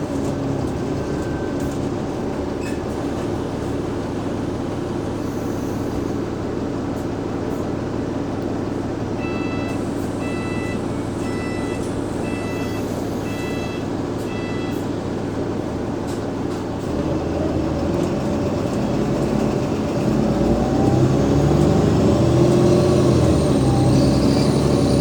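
Cummins ISL8.9 diesel engine of an Alexander Dennis Enviro500 MMC bus running at a steady low hum, with about six short electronic beeps around the middle. About 17 seconds in the engine note rises and gets louder as the bus pulls away and accelerates, with a thin high whine climbing near the end.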